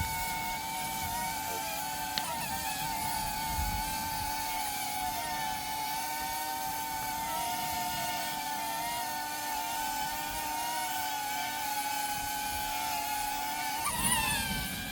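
A small electric blower running with a steady motor whine, fanning a campfire that would not catch. It wavers briefly near the end.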